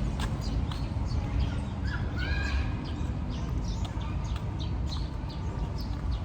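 Birds chirping and calling over and over, short rising and falling notes, over a steady low rumble.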